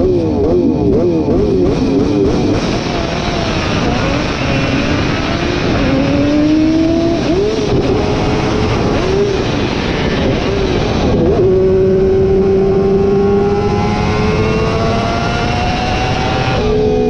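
A racing engine at high revs, its pitch swinging up and down, then climbing steadily under acceleration, with a gear change about eleven seconds in before it climbs again.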